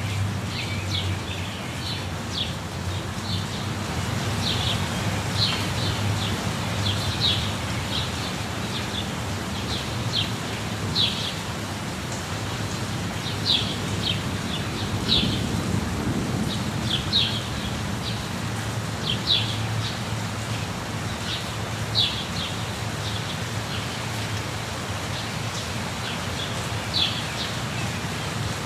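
Steady rush of a waterfall with birds chirping in short, high-pitched calls throughout.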